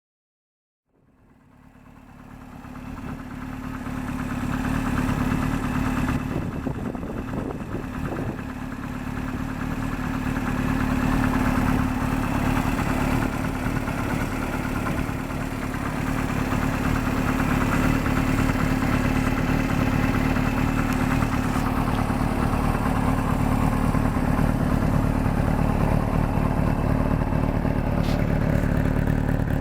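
Kawasaki Z1's air-cooled inline-four engine idling through an NGC aftermarket muffler, fading in about a second in and running steadily with a couple of small rises in level. A light clattering at idle comes from loose bolts on the starter one-way clutch and generator.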